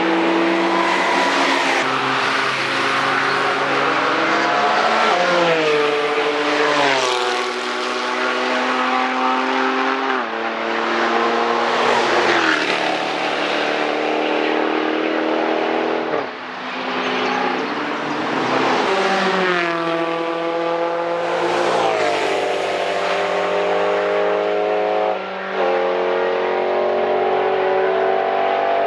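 Fast cars passing one after another, engines running hard under load. Each engine note drops in pitch as the car goes by, about half a dozen times, with the next car's engine rising in behind.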